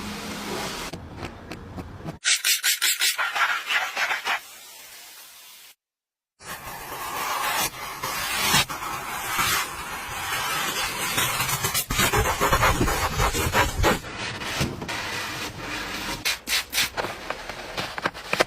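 Rubbing and scraping sounds in a string of short clips that change abruptly, with a brief moment of silence about six seconds in.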